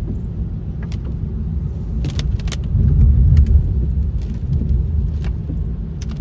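Low rumble of a car being driven, heard from inside, swelling about three seconds in. Scattered sharp clicks and rattles sound on top of it.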